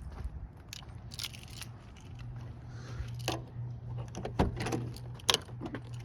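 Keys jangling, with scattered clicks and knocks, the loudest about three, four and five seconds in, over a steady low hum that starts about two seconds in.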